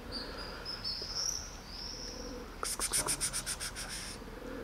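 Small bird calling: a thin, high wavering whistle for about two seconds, then a quick run of high chirps, about seven a second, for a second and a half.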